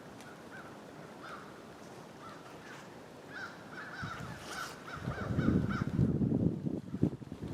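A bird calling in a quick run of short repeated notes, then louder rustling with a few knocks in the last couple of seconds.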